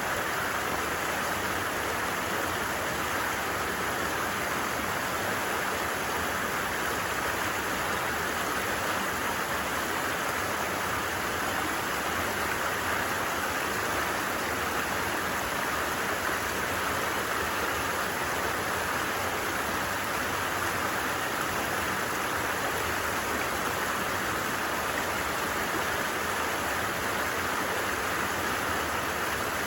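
A stream running: a steady, even rush of flowing water that does not change.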